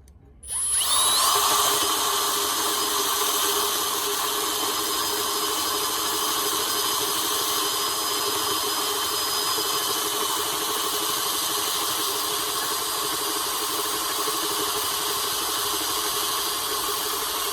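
Handheld electric drill with a half-inch high-speed steel bit spinning up about half a second in, then running steadily at low speed as it bores an interrupted hole through metal, with a steady whine.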